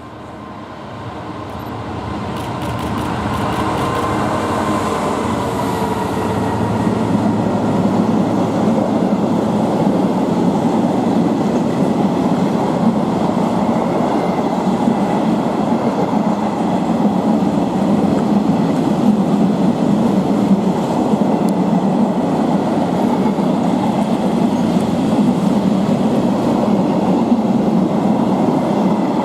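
Class 66 diesel locomotive hauling a freight train past. The sound builds over the first several seconds, then holds as a steady, loud rumble of wagon wheels on the rails.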